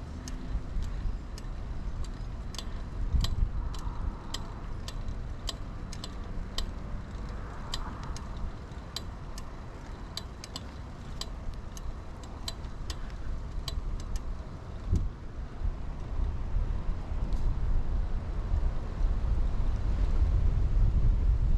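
2000 Kona Blast mountain bike rolling, with a low tyre and wind rumble on the chest-mounted microphone. A light, uneven ticking about two or three times a second runs for most of the first two-thirds, then stops, and the wind rumble grows louder near the end.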